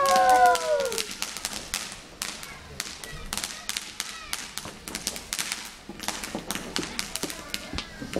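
Fireworks crackling and popping in a rapid, irregular series of sharp cracks, with a falling pitched tone in the first second.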